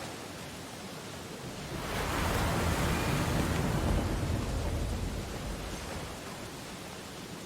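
Ocean waves on a beach: steady surf hiss, with one wave building about two seconds in, breaking and washing in, then fading back to the background wash.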